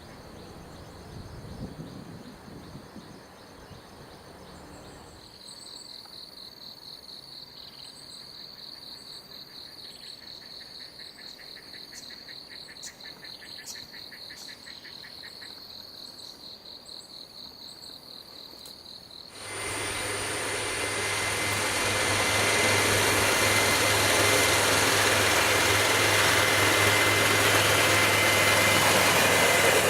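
Insects chirping in a fast, even pulsing rhythm over quiet background. About two-thirds through, a motorised rail inspection car's small engine cuts in abruptly and runs loudly and steadily with a low hum, growing a little louder.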